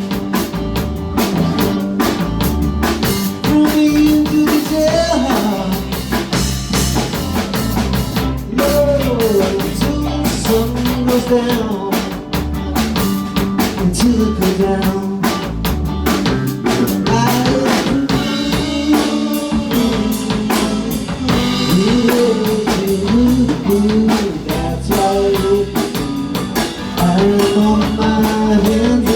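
Rock band playing live: drum kit keeping a steady beat under bass and guitars, with a lead line bending and sliding between notes over an instrumental stretch.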